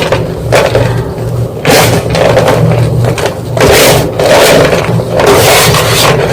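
White gym chalk being crushed, a series of crunches and crumbles coming roughly once a second, over a steady low hum.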